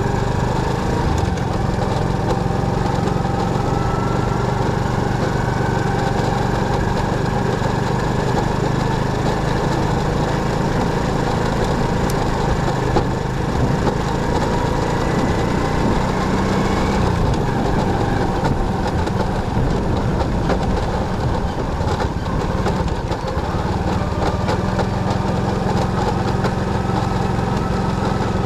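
Motorcycle engine running steadily, its note shifting a little about seventeen seconds in.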